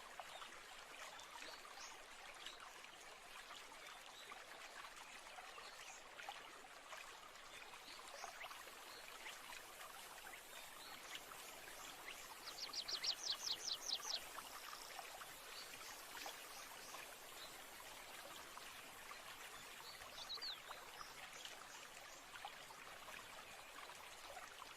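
Faint, steady babbling of a stream with birds singing over it: a fast, high trill of about ten notes about halfway through, and a short chirp later.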